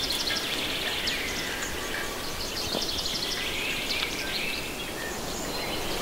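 Several small birds singing, with short high chirps and trills repeating throughout, over a steady background hiss.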